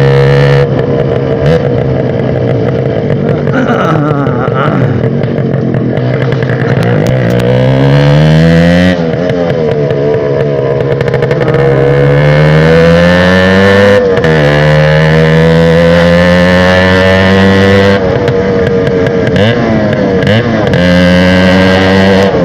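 TVS Max 100R motorcycle with a loud exhaust, accelerating hard through the gears. The engine note climbs steadily, then drops suddenly at each upshift, about three times.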